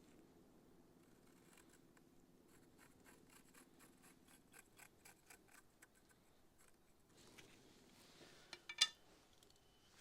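Faint rhythmic scratching on a wooden board, about three strokes a second for several seconds, followed by a few sharp clicks near the end; a low steady hum sits underneath for the first part.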